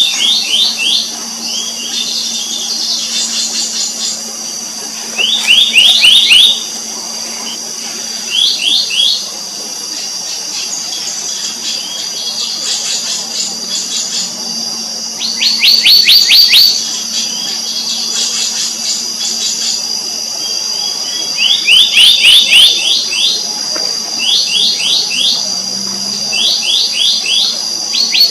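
Black-naped monarchs calling: quick runs of sharp, ringing notes, each run about a second long and repeated every few seconds, some loud and some fainter. A steady high insect drone runs underneath.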